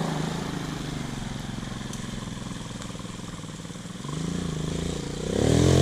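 Enduro motorcycle engine running at low revs, then revving up twice, rising in pitch and getting louder near the end.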